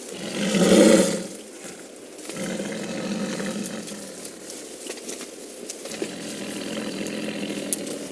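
Snared Siberian tiger giving one loud roar about half a second in, then growling more quietly. A single sharp click comes near the end.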